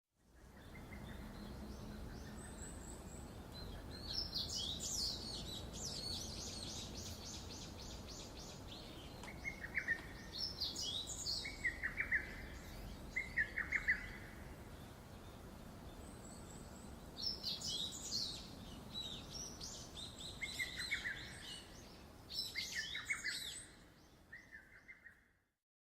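Birds chirping and trilling in scattered bursts over a faint steady outdoor hiss, with quick high trills and short falling call notes.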